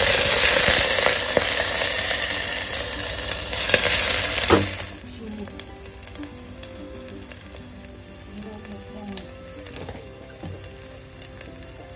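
Sliced onion and herbs sizzling in hot oil in an aluminium pressure cooker. The sizzle is loud for the first four or so seconds, then drops suddenly to a much quieter sizzle.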